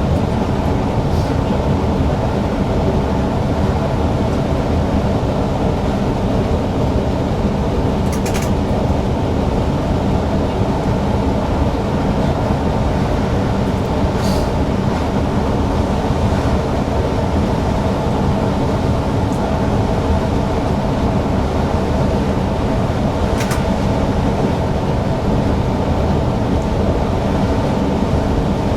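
Newag Impuls EN63 electric multiple unit running steadily along the line: a continuous rumble of wheels on rail with a steady hum from the drive. Three brief sharp ticks sound at intervals.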